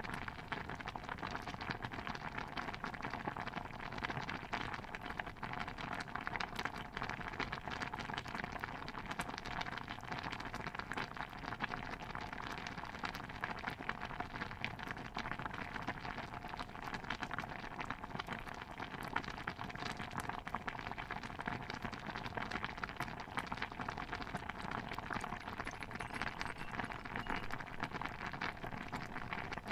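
Layered kitchen ambience mix: a steady, dense patter of many small pops and crackles.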